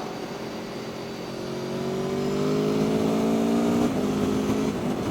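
Aprilia Tuono V4 motorcycle engine pulling under throttle. Its pitch climbs slowly for about four seconds, then breaks and drops on an upshift, with wind rushing past the helmet microphone.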